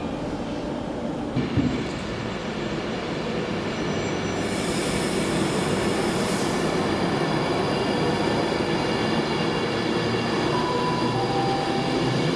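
A train running along the track, growing gradually louder. There is a thump about a second and a half in, and a burst of hiss starts around four and a half seconds in and lasts about two seconds.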